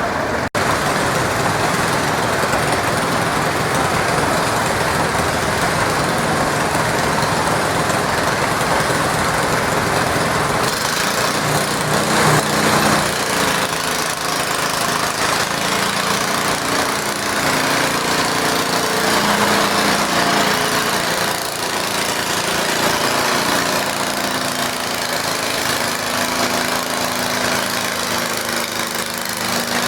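Garden tractor engine running continuously, its sound changing about ten seconds in with shifting pitch.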